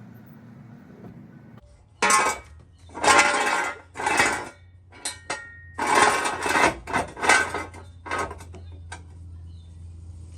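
Metal hand tools and sockets clinking and clattering as they are rummaged through, in a run of loud bursts from about two seconds in that tails off near the end.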